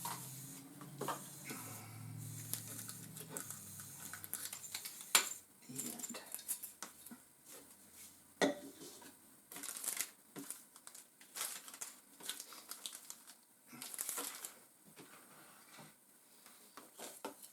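Plastic packaging crinkling and rustling, with irregular clicks and knocks of hard plastic feeder-mount parts being handled; the sharpest knocks come about five and eight seconds in.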